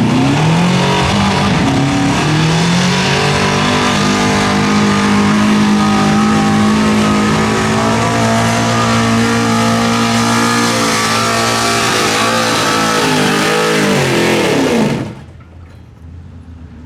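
Pulling truck's engine at full throttle under heavy load. Its pitch climbs over the first few seconds, then holds high and steady. About fifteen seconds in, the pitch drops and the engine sound falls away suddenly as the throttle is lifted at the end of the pull.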